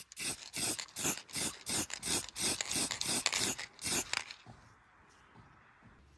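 Hand filing strokes in a quick, even back-and-forth rhythm, about three strokes a second, stopping a little over four seconds in.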